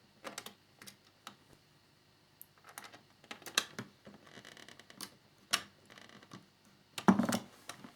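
Small irregular clicks and taps of a screwdriver and a tiny slot screw against plastic model fairing parts, with a short scraping about halfway and a louder knock near the end, as the screw fails to go in.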